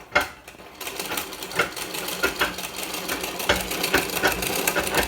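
Singer straight-stitch sewing machine sewing through fabric: after a single click near the start, the machine starts running about a second in and keeps going with a steady run of quick, repeated stitch clicks.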